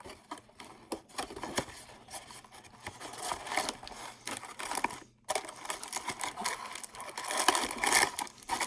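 Cardboard hobby box and its wrapped trading-card packs being handled: irregular rustling, scraping and crinkling with small clicks, busiest near the end.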